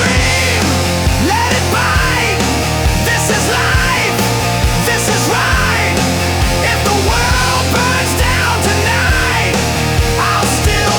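Loud hard rock music with a steady driving beat, dense distorted instruments and sliding melodic lines.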